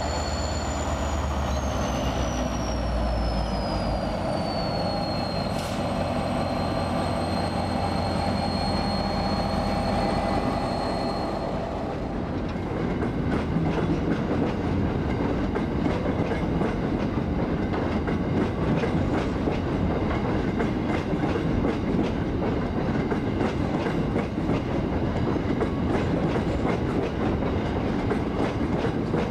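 Diesel-electric locomotive passing close, its engine running with a high whine that drops in pitch over the first few seconds. From about twelve seconds in, a long rake of ore wagons rolls past, its wheels clicking rapidly over the rail joints.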